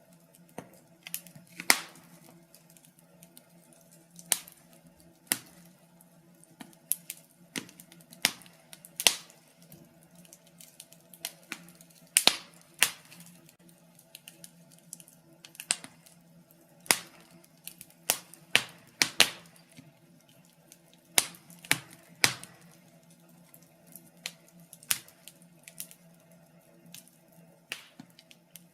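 Wood fire in a fireplace crackling: irregular sharp pops and snaps, a few of them louder, over a faint steady low hum.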